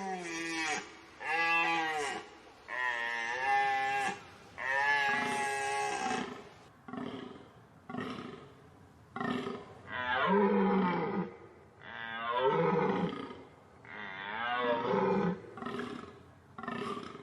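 Deer calling over and over: about a dozen calls in a row, each a second or two long with short gaps between. The later calls slide downward in pitch.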